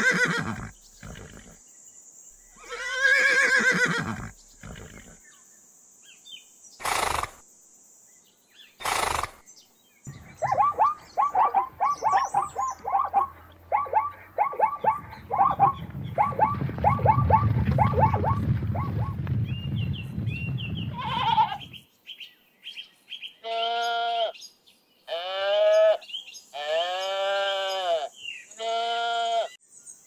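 A horse whinnying twice at the start. Then a long run of rapid, repeated short calls over a low rumble as a zebra herd runs. Near the end, sheep bleating four times.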